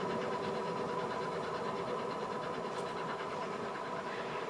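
Steam-hauled passenger train going away along the track: the coaches' wheels rolling on the rails with a steady ringing hum, slowly fading.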